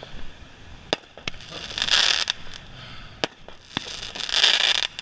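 Consumer fireworks going off: a hissing rush swells and fades about every two seconds, with sharp pops and cracks in between.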